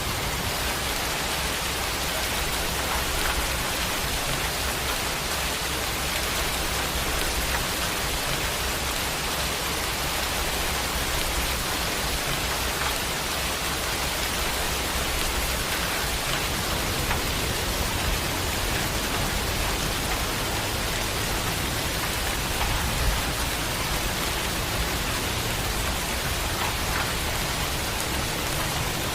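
Steady rain falling, an even hiss of drops with a faint low rumble underneath.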